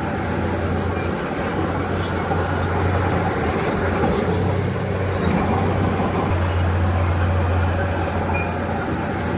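Diesel engine of a Komatsu D31P crawler bulldozer running steadily with a low hum, with faint scattered clicks and clinks over it.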